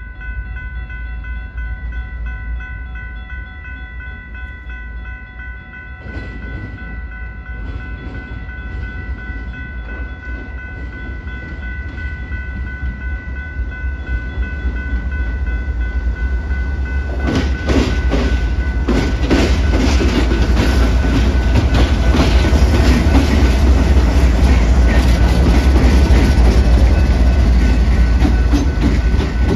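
Canadian Pacific diesel freight train approaching and passing: a low engine rumble that builds, then from about 17 seconds in loud, dense clattering of wheels on the rails as the train goes by. A steady high ringing tone runs under it until near the end.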